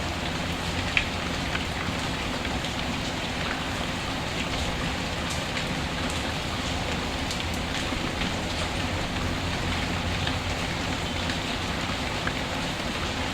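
Steady rain falling, mixed with a crackling wood fire in a fireplace: scattered sharp pops over the even rush of the rain, one louder about a second in.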